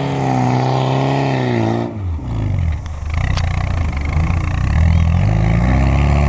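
Off-road 4x4 buggy's engine revving hard as it climbs a grassy slope, wheels throwing dirt. About two seconds in the engine note drops suddenly, then it picks up again and rises and falls as the buggy pulls on up the hill.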